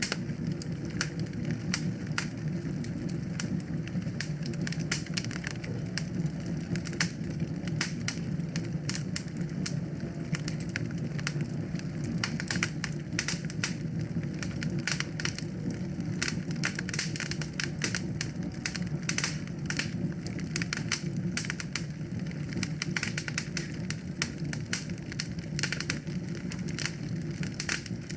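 Fire burning in a fireplace: a steady low rush of flames with frequent small, irregular crackles and pops.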